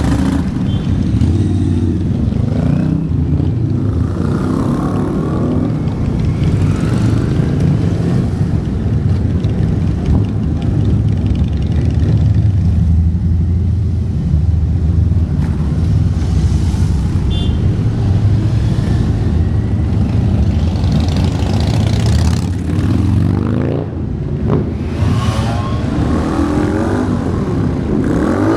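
A vehicle engine running steadily, its pitch rising and falling several times near the end.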